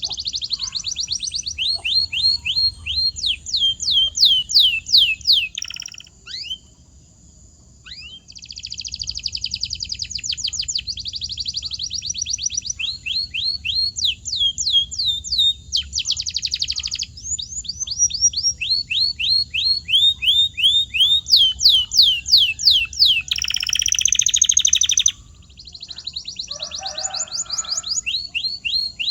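Domestic canary singing a long song of fast trills: rapid runs of repeated high, downward-sweeping notes, changing phrase every few seconds, with a short pause about six seconds in and a dense buzzy roll near the end.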